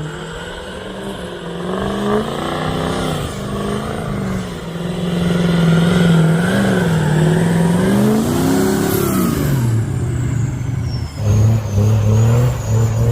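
Ford 6.0 Power Stroke diesel pickup engine revving up and down under load as the truck climbs a snowy off-road trail, rising to its highest revs about two-thirds through, then falling back.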